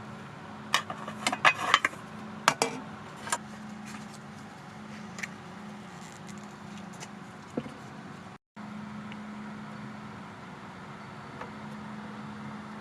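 A quick run of sharp clinks and rattles from small hard objects being handled, like tableware or cutlery, mostly in the first few seconds, with a few lighter ticks later. A steady low hum runs underneath.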